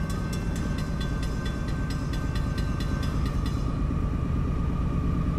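Low, steady rumble of an approaching CSX diesel freight locomotive, growing a little louder toward the end. Over it, a rapid metallic ringing at about four to five strikes a second stops about three and a half seconds in.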